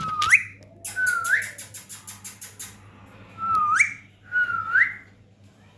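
A pet parrot whistling four short rising whistles, each sweeping upward at the end, with a quick run of clicks between the second and third.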